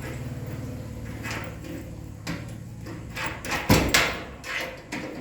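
A door being unlocked and opened, with a series of rattles and clicks and a loud knock nearly four seconds in. A steady low hum fades out shortly before the knock.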